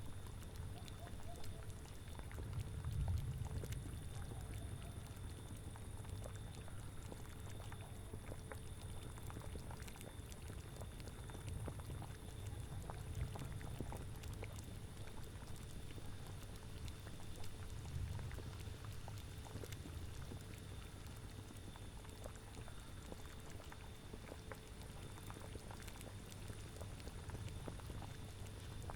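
Witch's cauldron bubbling at a steady boil, with scattered small pops, over a low rumble of autumn wind that swells up now and then.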